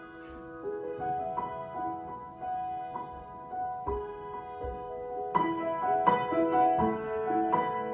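Solo piano improvisation: single notes and chords struck and left ringing, growing louder with several firmer chords from about five seconds in.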